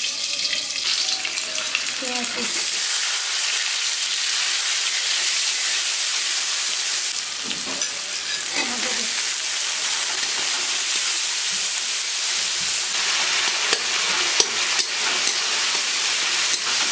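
Food frying in hot oil in a kadai, sizzling and being stirred with a spatula. The sizzle jumps louder about two and a half seconds in and then holds steady, with a few short scrapes of the spatula near the end.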